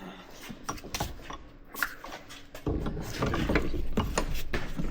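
Bench vise being cranked closed: the screw and sliding jaw clicking and rattling, which gets louder and busier a little past halfway.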